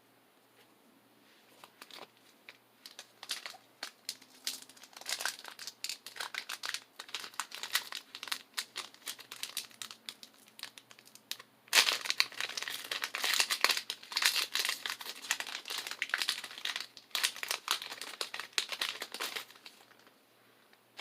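Foil wrapper of a Pokémon booster pack crinkling and being torn open by hand, an irregular crackle that gets louder and busier about halfway through, then stops just before the end.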